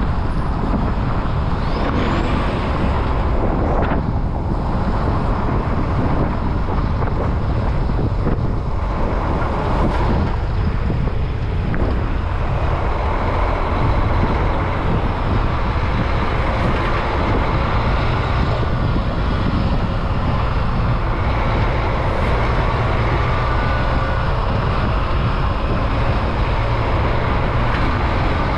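Steady road traffic noise of cars and trucks passing, a continuous low rumble of engines and tyres with faint whining tones in the second half.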